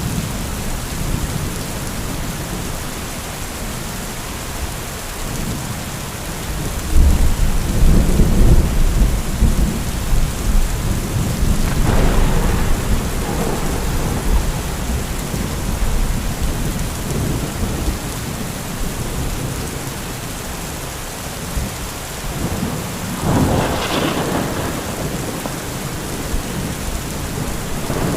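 Heavy rain falling steadily during a thunderstorm, with a long, deep rumble of thunder from about a quarter of the way in and crackling thunder twice later, the sharpest crack near the end.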